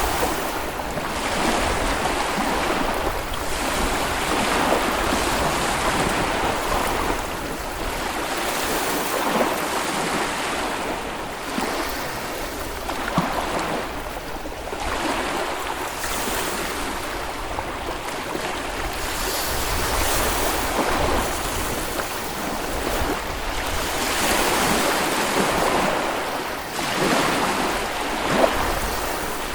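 Small Baltic Sea waves breaking and washing up on a beach, the wash swelling and fading every few seconds, with an occasional sharper splash.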